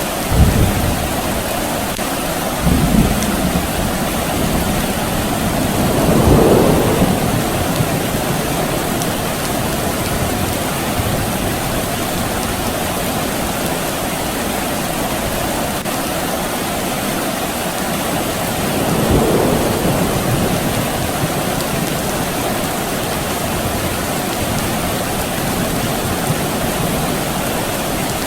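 Steady soft rain falling, with distant thunder rumbling several times: short low rumbles right at the start and about three seconds in, a longer swelling rumble around six seconds in, and another about two-thirds of the way through.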